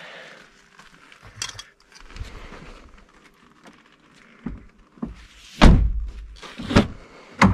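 A series of knocks and clicks on a car body, ending in three heavy thunks in the second half, the first of them the loudest. They come from handling the car door and its trim as a new entry light is snapped into place.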